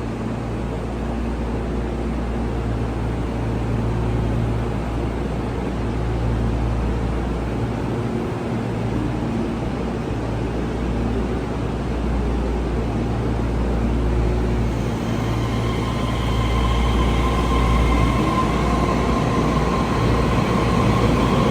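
Taiwan Railway train running with a steady low rumble. Over the last several seconds a high tone comes in and a whine rises in pitch near the end.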